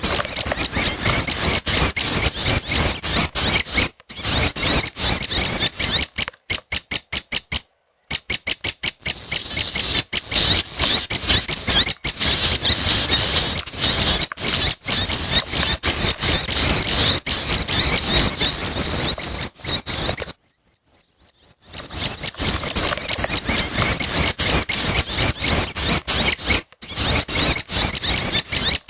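Juvenile prenjak (red-headed prenjak) chicks calling: rapid, high, continuous chirping, breaking in places into strings of separate quick chirps, with a pause of about a second and a half near two-thirds of the way through.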